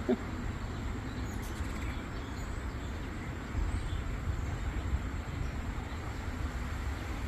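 Wind buffeting the microphone: a steady low rumble with an even rushing hiss over it.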